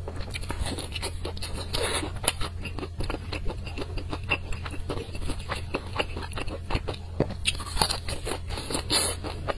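Close-miked chewing and crunching of crispy fried food coated in red sauce: a dense, irregular run of short crackles and crunches, over a steady low hum.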